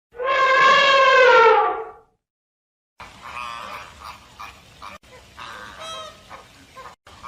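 One loud animal call, held at a fairly steady pitch for about two seconds. After a short silence comes a quieter recording of several shorter animal calls.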